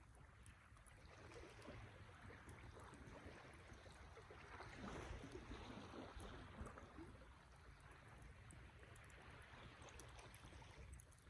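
Wood campfire burning faintly: a soft rush of flame with scattered small crackles and pops, swelling a little around the middle.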